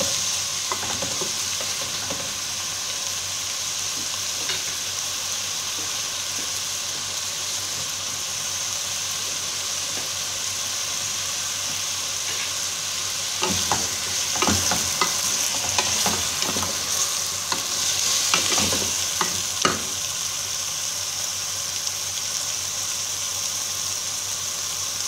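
Chicken pieces sizzling steadily as they fry in a metal pot, with a wooden spoon stirring and scraping against the pot, the clatter heaviest through the middle stretch.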